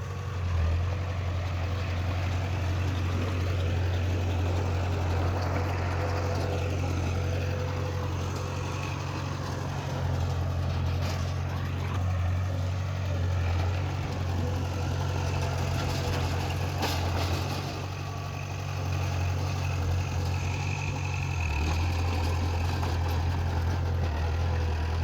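Diesel engine of heavy earthmoving machinery running steadily, with a couple of brief knocks.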